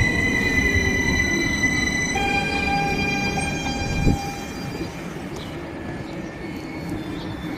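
Electric passenger train running at or by the platform, with a steady high whine over a low rumble. The whine changes pitch about two seconds in, there is a thump about four seconds in, and the sound then gets quieter.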